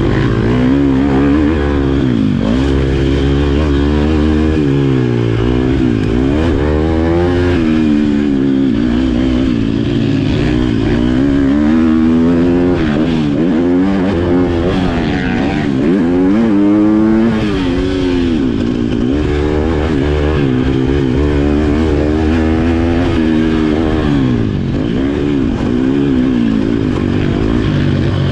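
Motocross bike engine being ridden hard, its pitch climbing and dropping every second or two as the throttle is opened and closed and the gears change.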